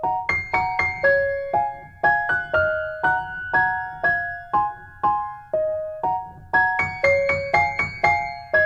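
Background music: a gentle keyboard melody of single struck notes, each fading away, about two a second.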